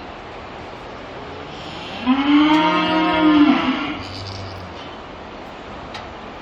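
Hanwoo (Korean native cattle) mooing: one long call of about two seconds, starting about two seconds in, holding its pitch and dropping away at the end.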